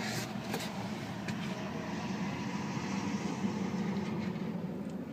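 Audi TT 2.0T's turbocharged four-cylinder engine idling: a steady low hum that eases off slightly near the end.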